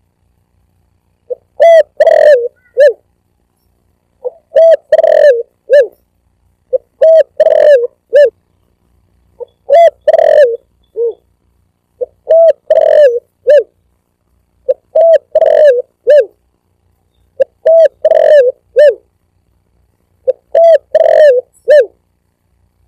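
Spotted dove (tekukur) cooing as a lure call: a phrase of four or five loud coos, repeated about every three seconds.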